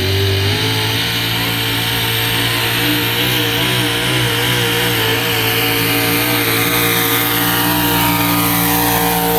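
Pulling truck's engine running loud and steady at high revs, with a high whine that falls steadily in pitch over the last few seconds.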